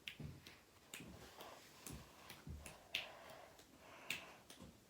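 Faint, irregular clicks and ticks, about one or two a second, with near silence between them.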